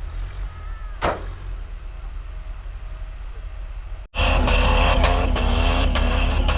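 Off-road 4x4 engine running low, with a single sharp click about a second in. After an abrupt cut about four seconds in, the engine runs loud and hard at steady high revs, as it does when pushing through deep snow.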